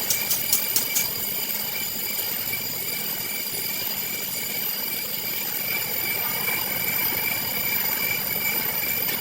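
A workshop machine running steadily with a high-pitched whine, with a few sharp clicks in the first second.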